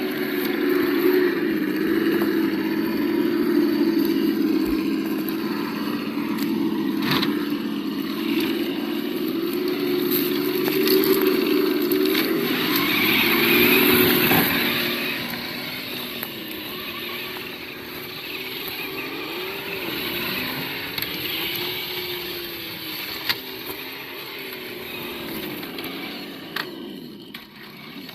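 Simulated engine sound from the sound module of an Absima Yucatan 1:8 RC crawler, played through its small speaker. It runs steadily at first, then rises and falls in pitch as the truck is throttled on and off, with a few sharp clicks.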